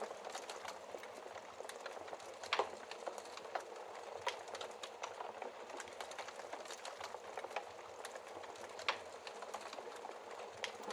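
Wood fire crackling and hissing, with frequent small snaps and a few louder pops, three of them standing out.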